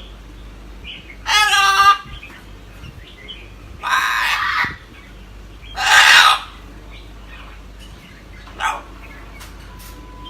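Pet parrot squawking four times: a wavering, pitched call, then two harsher, rougher squawks, then a short faint call near the end.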